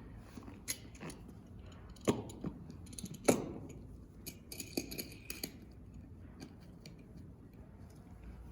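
Vaginal speculum being handled and opened during the examination: several sharp clicks and snaps, the loudest a little over three seconds in, then a quick run of ticks around five seconds in.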